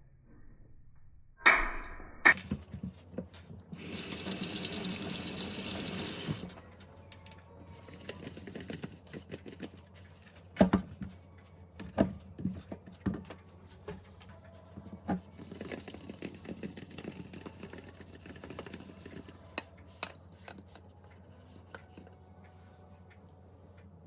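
Water tap running for about two seconds, then scattered clinks and knocks of things being handled at a sink.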